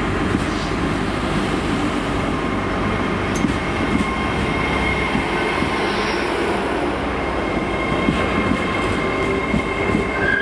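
GWR Hitachi Intercity Express Train running past close by along the platform: a steady, loud rumble of wheels and underfloor equipment, with a thin high whine held over it for most of the pass.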